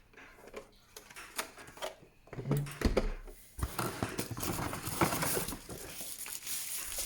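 Hard plastic robot-vacuum accessories being handled: scattered light clicks and knocks, a heavier knock about halfway through, then steady rustling and handling noise.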